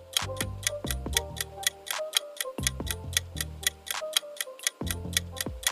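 Countdown timer sound: a clock ticking quickly, about four ticks a second, over light background music with low bass notes, marking the seconds left to answer a quiz question.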